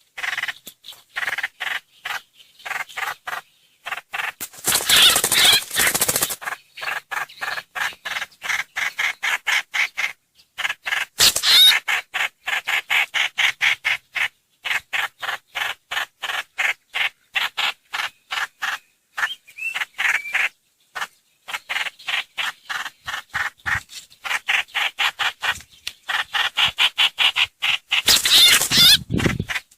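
Trao trảo (hoành hoạch) bird calls played as a lure: a long run of short chirping notes, a few each second, broken three times by a louder harsh chattering burst, around five seconds in, around eleven seconds and near the end.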